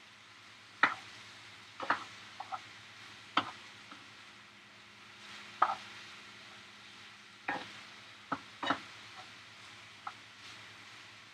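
A utensil knocking and scraping against a frying pan while chicken and peppers are stirred, about ten irregular clacks over a faint sizzle.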